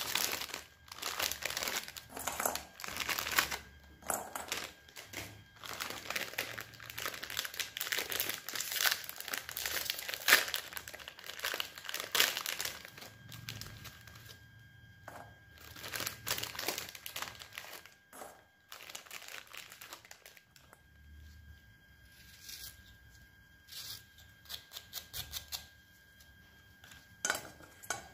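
Packaging crinkling and rustling as it is handled and torn open, in irregular crackly bursts, busiest in the first half and sparser later.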